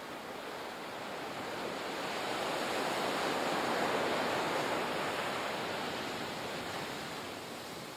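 Ocean surf: a single wave swells up, peaks about halfway through and washes back down.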